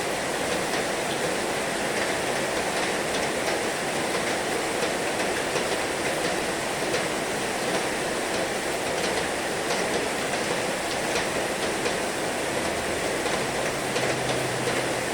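Heavy rain falling steadily: an even hiss with scattered sharper drip ticks.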